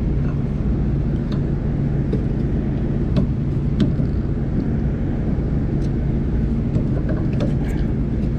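Steady low machinery hum with a few light clicks and taps from hands working on belt-drive equipment.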